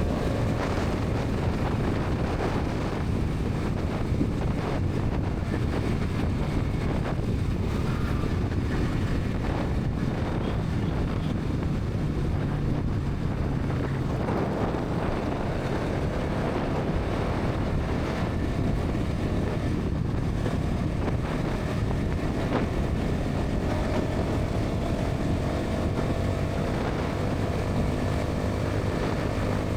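Bajaj Pulsar NS 200's single-cylinder engine and exhaust running steadily at highway speed, mixed with heavy wind noise on the microphone. The engine note climbs slightly near the end.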